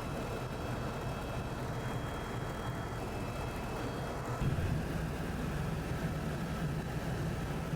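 Tour helicopter in flight, heard from inside the cabin: a steady engine and rotor drone under wind noise, which shifts slightly in pitch about halfway through.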